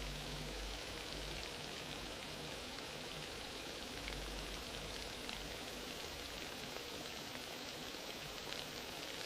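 Wood fire crackling in a fireplace: a steady hiss with small crackles and pops scattered throughout.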